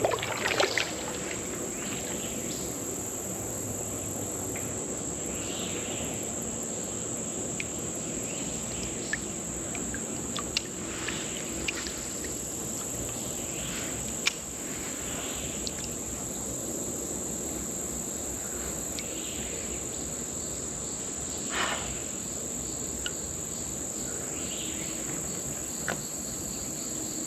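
Steady high-pitched chorus of insects, crickets or similar, trilling without a break. A few light clicks and knocks sound here and there, the sharpest near the start and about two-thirds of the way through.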